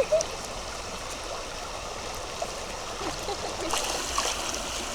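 Flowing river water running steadily, with small gurgles and a few light splashes about four seconds in.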